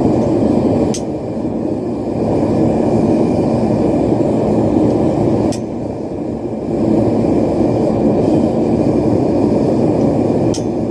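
Propane forge burner running loudly and steadily, with three short, sharp metal strikes a few seconds apart: a hammer tapping a center punch.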